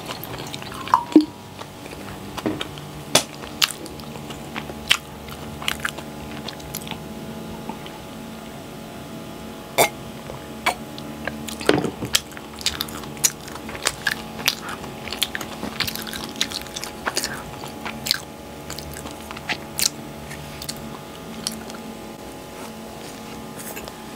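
Close-miked eating of soft cheesebread: chewing and biting with irregular wet mouth clicks and smacks. It opens with the tail of water being poured into a glass and two sharp knocks about a second in.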